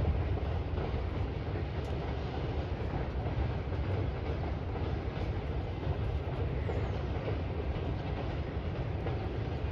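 Distant freight train running across a bridge behind a VL80S electric locomotive: a steady low rumble of the wagons rolling along the track.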